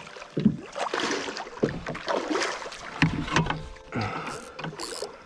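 Irregular knocks, scrapes and handling noises on a small fishing boat while a hooked tripletail is being fought, with a few short hissy bursts near the end.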